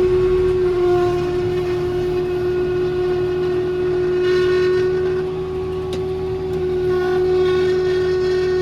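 Tractor pulling a round baler through hay, running steadily with a constant high whine over a low rumble.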